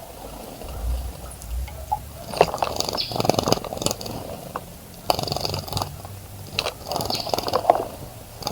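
A small bird splashing in a garden bird bath, fluttering its wings in the water in three quick bouts of splashing.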